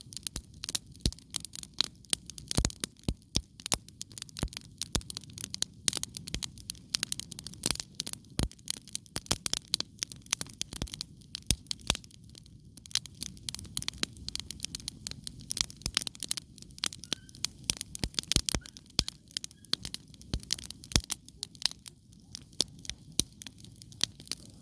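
Wood campfire with its logs crackling: many sharp, irregular snaps over a low steady rumble.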